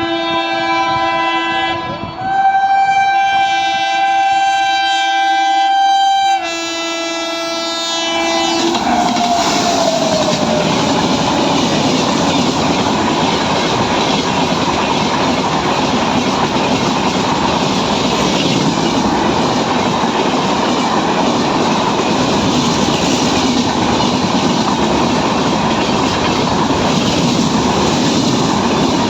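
Electric locomotive air horn sounding a multi-note chord for about eight seconds in three stretches, its pitch sliding down at the end as it passes. Then a train passing at speed: a steady rush of wheels on rail and coaches going by.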